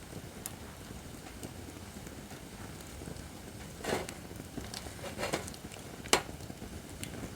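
Acacia firewood burning in a fire pit: a low steady hiss with scattered small crackles, a couple of stronger crackles a little past the middle, and one sharp pop about six seconds in, the loudest sound.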